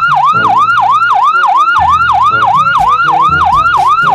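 Electronic siren of a toy police ambulance car: a fast, repeating yelp, about four rises and falls a second. Low electronic notes step up and down underneath it.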